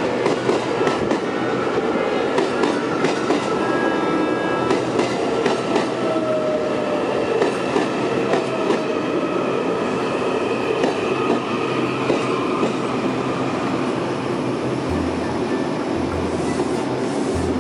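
Taiwan Railways EMU800 electric multiple unit rolling slowly along the platform as it pulls in to stop, its wheels rumbling and clicking over the rail joints, with a few thin high tones over the noise and a low hum coming in near the end.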